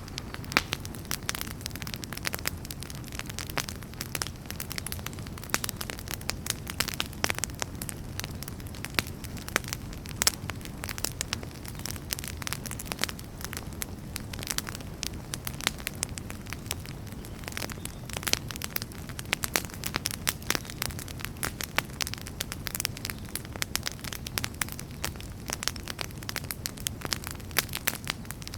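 Wood fire burning in a fireplace, with a steady low rumble of flame under frequent irregular crackles and pops of the burning logs.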